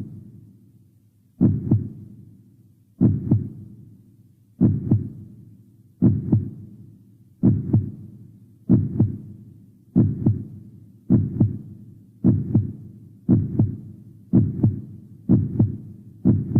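Heartbeat sound effect: paired low thumps, lub-dub, each dying away, quickening from about one beat every one and a half seconds to about one a second.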